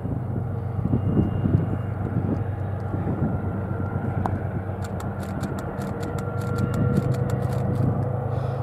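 Diesel freight train engines droning steadily in the distance, a low hum. From about five seconds in comes a run of sharp crackling clicks.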